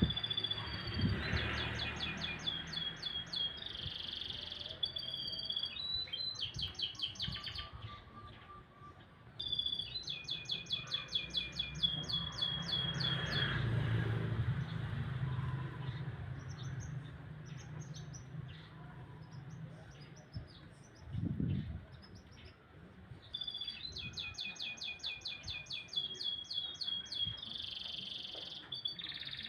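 Domestic canary singing: long phrases of fast, evenly repeated high trills and buzzy rolls, separated by pauses with scattered single notes. A low rumble runs under the song.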